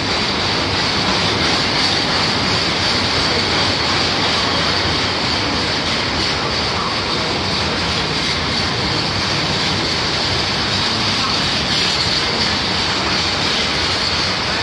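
Freight train of empty bogie steel-carrier wagons rolling past: a steady, loud rumble and rattle of wagon wheels on the rails.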